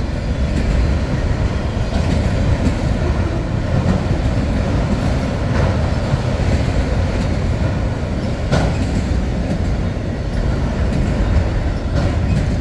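Freight train of autorack cars rolling past at close range: a steady rumble of steel wheels on the rails, with a few sharp clicks scattered through it.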